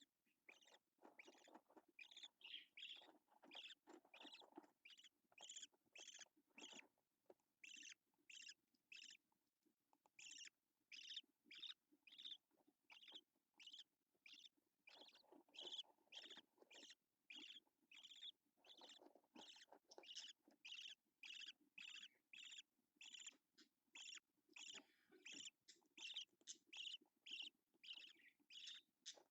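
Faint budgerigar chirping: a steady run of short, high call notes, about two a second, with a softer low warble underneath in places.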